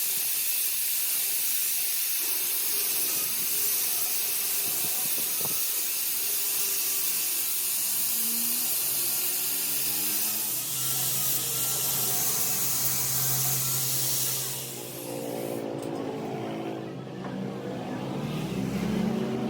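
A steady loud hiss, like air or spray blowing, that drops away about fifteen seconds in. A low steady hum comes in about eleven seconds in, and a motor runs underneath toward the end.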